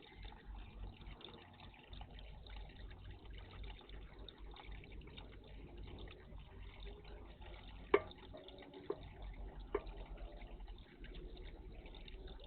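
Water splashing and trickling in a garden bird bath, with three sharp clicks about a second apart some eight seconds in.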